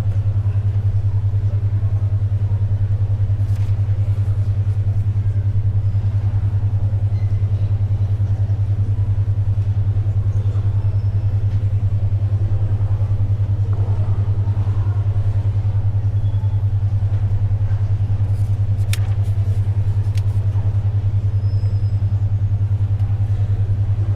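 A low hum-like tone around 100 Hz, pulsing evenly about ten times a second: a 10.2 Hz alpha brainwave tone. Underneath is faint library background noise with a few soft paper and pencil sounds.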